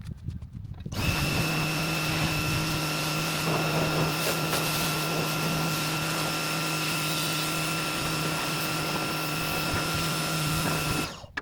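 Electric motor-driven machine running steadily with a whine, switched on about a second in and off near the end.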